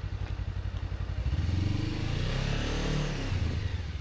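Motorcycle engine idling with a low, even pulsing beat, then revving up about a second in, its pitch climbing and then dropping back.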